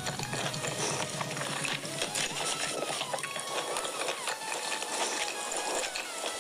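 Chewing and tearing of roast chicken eaten by hand: a dense run of wet mouth clicks, smacks and crackles.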